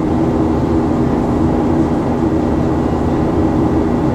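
Passenger jet heard from inside the cabin: a steady engine and air drone with a constant low hum.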